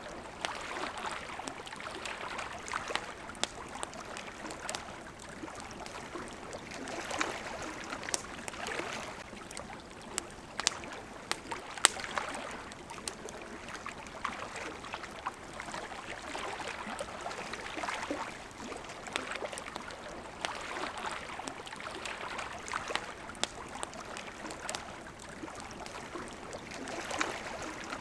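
Small waves lapping at the water's edge, swelling and falling every couple of seconds, with the sharp crackles and pops of a wood campfire over them; the loudest pop comes about twelve seconds in.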